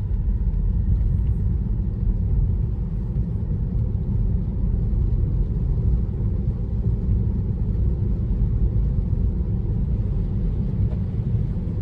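Steady low rumble of road and tyre noise inside a Tesla's cabin as the car drives.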